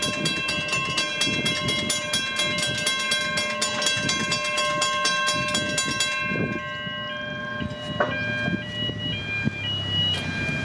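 Level crossing's mechanical bells ringing in rapid, even strikes as the crossing activates. The strikes stop about six seconds in, and an electronic warning tone then carries on, alternating between two pitches.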